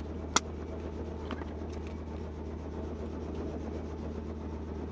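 Helicopter running, a steady low drone, with one sharp click about half a second in.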